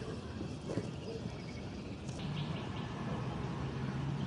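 Outdoor background noise with a click near the start, then a steady low engine hum that comes in about halfway and grows a little louder.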